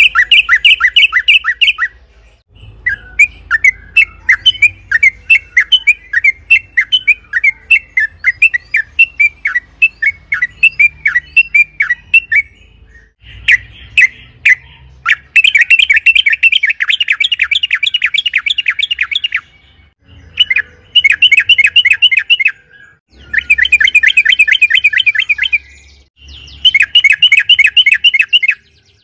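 Yellow-vented bulbul (trucukan) calling in long chattering rolls of rapidly repeated short notes, in several bouts with brief pauses between them; the bout in the middle is the fastest and densest.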